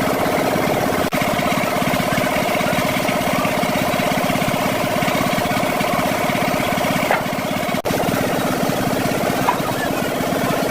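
An engine running steadily at idle, with two brief dropouts, about a second in and again around eight seconds.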